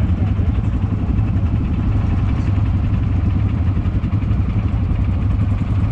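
Quad bike (ATV) engine running steadily at idle, ready to pull away.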